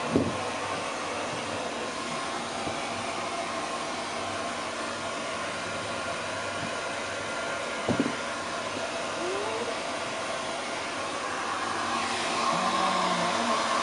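Hand-held hair dryer blowing steadily while drying a wet long-haired cat's fur, getting louder about twelve seconds in. Two brief knocks, one at the start and one about eight seconds in.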